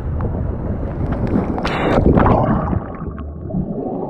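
Water splashing and gurgling, loudest about two seconds in.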